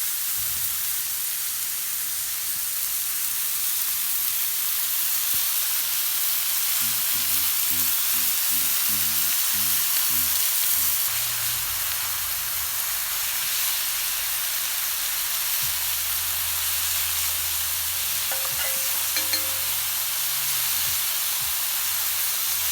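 Meat sizzling on a hot iron griddle: a steady, even frying hiss.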